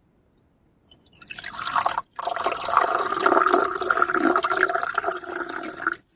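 Water being poured into a container. It starts about a second in, breaks off for a moment, then runs steadily until it stops suddenly near the end.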